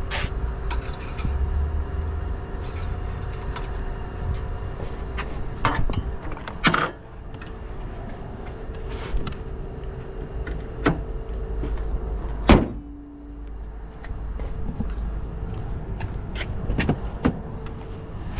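Car engine running at idle with a steady hum, with several sharp clicks and knocks over it, the loudest about twelve and a half seconds in.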